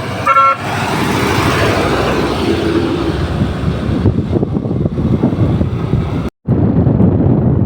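Truck engine and road noise with wind buffeting the microphone. The sound drops out for a moment about six seconds in.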